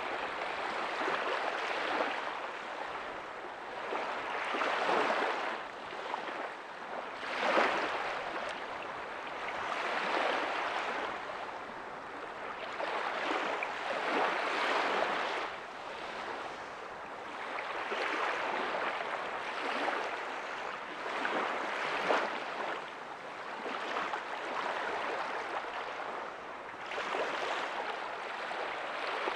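Ocean waves breaking softly on a beach, a rushing wash that swells and fades every few seconds as each wave comes in and draws back.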